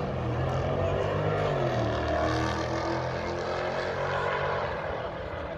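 Drag-racing car engines at full throttle down the strip. The pitch climbs, then drops about two seconds in and carries on steadily.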